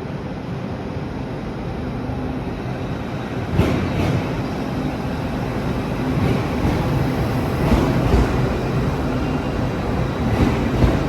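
A train running past, with a steady rumble and its wheels clacking over rail joints in pairs about half a second apart, three times.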